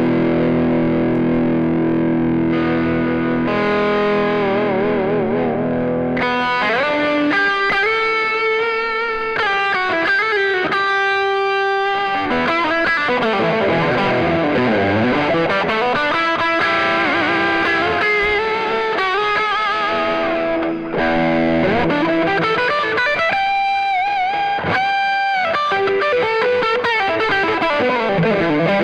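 PRS S2 Custom 24 electric guitar with Seymour Duncan pickups, played through distortion and effects: held chords for the first few seconds, then a lead line with string bends and vibrato.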